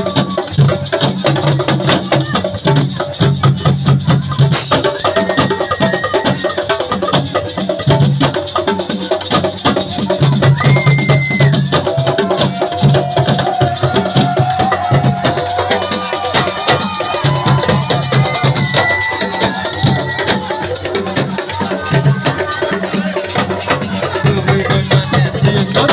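Assiko band music: dense, driving hand percussion with shaker-like rattling and a steady low pulse, and long held notes over it.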